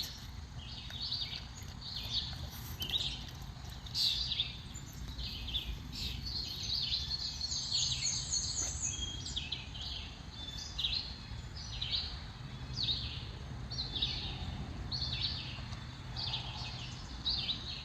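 Wild birds calling: a short, descending call repeated about once a second, which the listener takes for a blue jay, with a quick run of higher notes from another bird around the middle. A steady low hum of background noise lies underneath.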